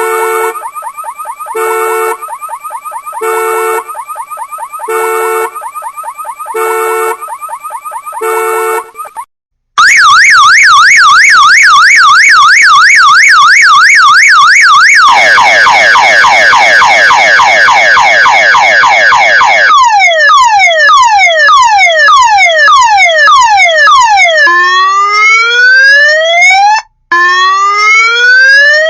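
Car alarm siren cycling through its tone patterns. It starts as a buzzing tone with a louder beep about every second and a half. After a short break it plays a fast up-and-down warble, then rapid downward chirps, slower falling sweeps, and finally long rising whoops.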